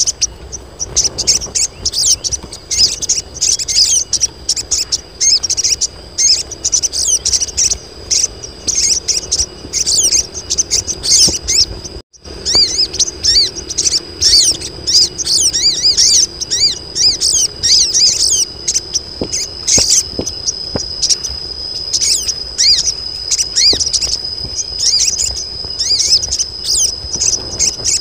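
Female sogon birds calling together: a dense chatter of quick high chirps and twitters, over a steady high insect-like trill. These are female calls for a mate, used to draw in male sogons. The sound cuts out for an instant about twelve seconds in.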